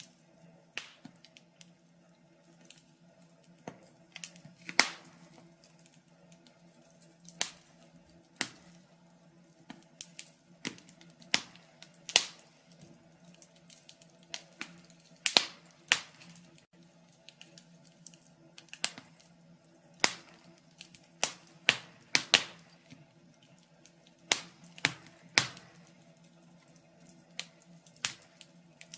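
Log fire crackling: irregular sharp pops and snaps, about one a second, some much louder than others.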